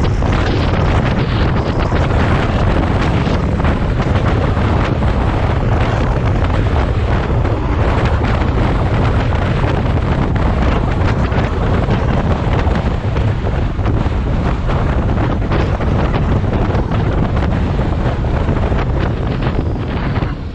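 Wind buffeting the microphone: a loud, steady rumbling noise that stays unbroken throughout.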